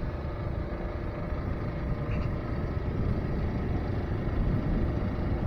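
Trailmaster MB200 mini bike's single-cylinder four-stroke engine running under way through its CVT belt drive, a steady engine note that slowly grows louder.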